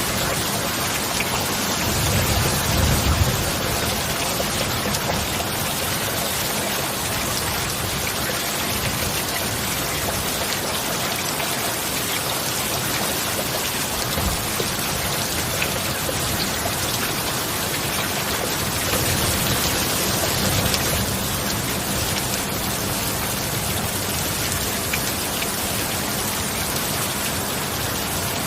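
Heavy, steady rain, with two brief low rumbles, one about two seconds in and another about two-thirds of the way through.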